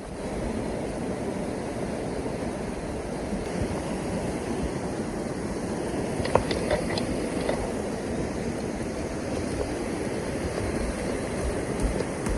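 Steady rushing of a river's flowing water, with a few faint clicks about halfway through.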